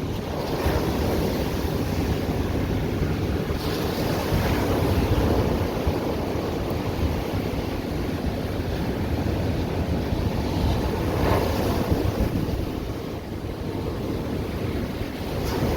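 Ocean surf breaking and washing on a beach, with wind rumbling on the microphone. A few louder wave splashes come through, one about four seconds in and another about eleven seconds in.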